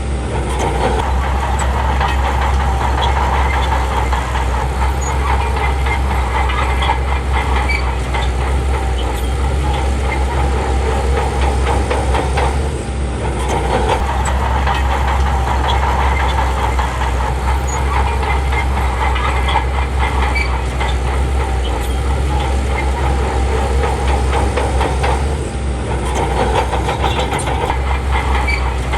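Bulldozer's heavy diesel engine running steadily, dipping briefly about halfway through and again near the end.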